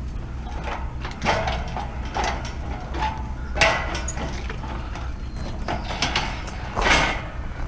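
Scrap metal being handled: several separate clanks and scrapes, the loudest near the end, over a steady low hum.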